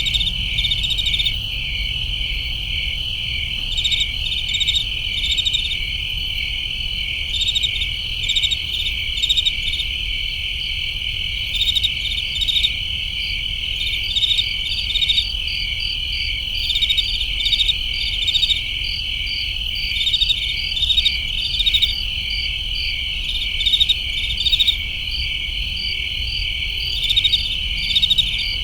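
Crickets chirping: a continuous high trill with pulsed chirps layered over it in short repeated clusters, over a faint low rumble.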